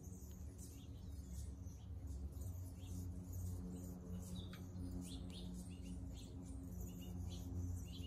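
Small birds chirping, many short high chirps overlapping throughout, over a low steady hum.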